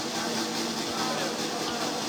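Steady crowd noise from football spectators, a wash of many voices with no single speaker standing out.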